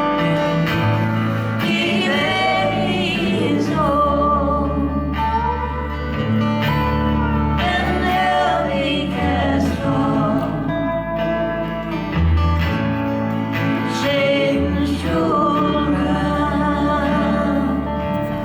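Live band performing a song: a singer over guitar and a bass line that shifts every second or two.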